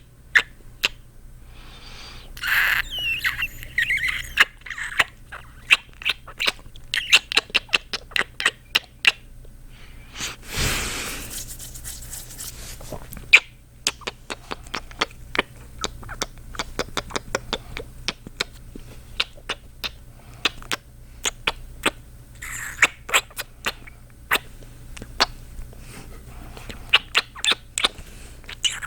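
A man making close-miked ASMR kissing sounds: many quick, wet smacking kisses, several a second at times. There is a longer breathy sound about ten seconds in.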